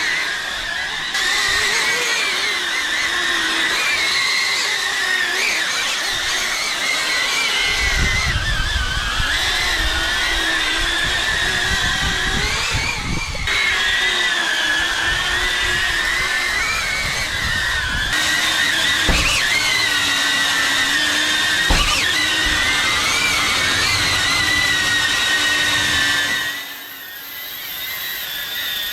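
Xpert Guard X8 caged multirotor drone flying, its propellers giving a steady whine that wavers in pitch as the motors adjust. A low rumble comes in about eight seconds in, and two sharp knocks come later. The sound drops briefly near the end before rising again.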